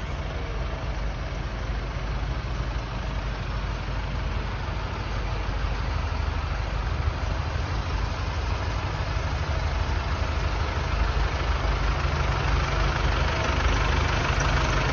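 Tractor engine running steadily at low revs, slowly growing louder.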